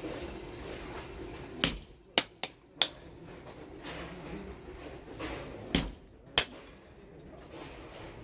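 Hammer strikes on metal at a blacksmith's forge, irregular and separate rather than a steady rhythm: four sharp strikes a little under two seconds in, then two more about six seconds in. A steady low hum stops just before the first strike.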